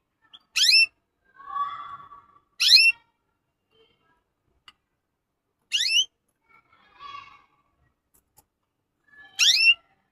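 A caged bird giving four short, loud rising calls, two to three seconds apart, with softer twittering in between.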